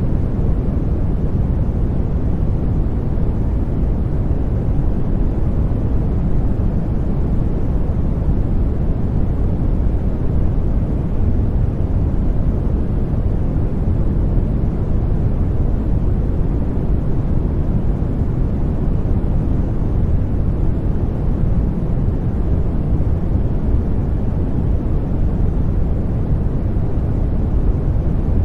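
Continuous sleep white noise for babies: an unchanging, even rush weighted toward the low end, deep rather than hissy, with no breaks.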